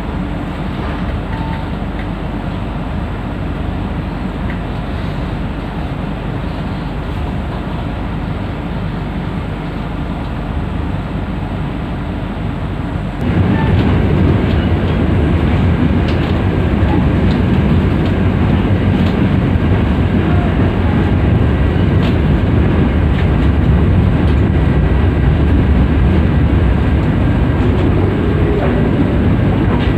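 Running noise of a moving passenger train heard from inside a 2009-built executive coach: a steady low rumble of wheels on rails. About a third of the way in it turns abruptly louder and stays that way.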